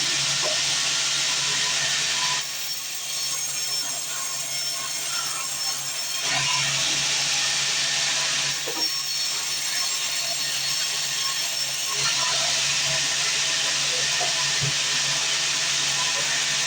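Sawmill band saw running and cutting wood: a steady hiss of the blade in the wood over a low motor hum, easing off twice for a few seconds and then coming back.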